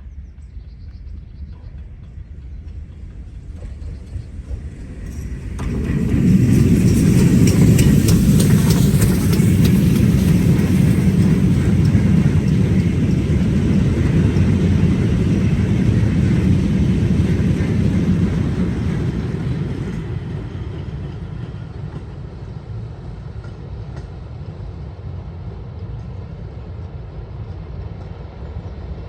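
A train passing at speed: a rumble that builds, is loudest from about six to twenty seconds in, then dies down as it moves away.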